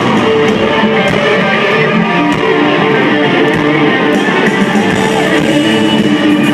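Live country-rock band playing loud through a concert PA, led by electric guitars over a drum beat, with no clear vocal line.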